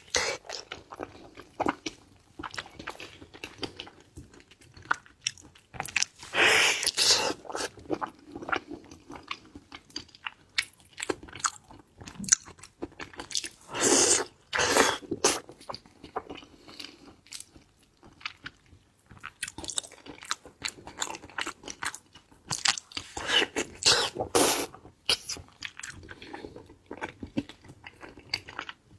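Close-miked eating of shellfish: wet chewing and biting with crisp crunches, louder bursts of crunching coming several times.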